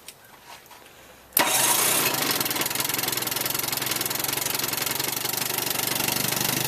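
Johnson 18 hp two-stroke outboard motor starting abruptly about a second and a half in, then running steadily at idle.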